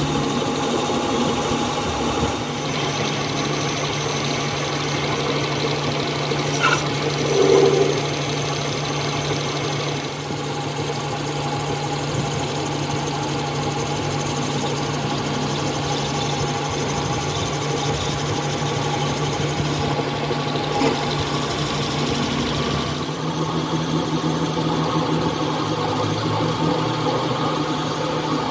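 Machinery running steadily with a constant low hum, with a brief louder sound about seven to eight seconds in.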